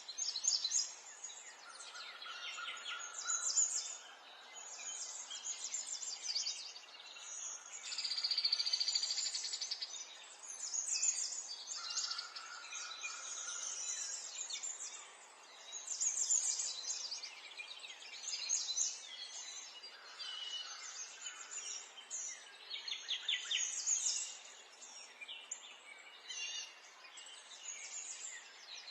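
Several small songbirds chirping and singing at once, short high calls overlapping throughout, with a fast high trill about eight seconds in, over a faint steady outdoor hiss.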